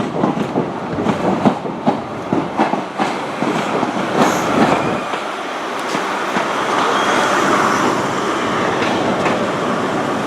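CrossCountry HST (InterCity 125) moving past, its wheels clicking sharply and irregularly over rail joints and points. About halfway through the clicks give way to a steadier running rumble.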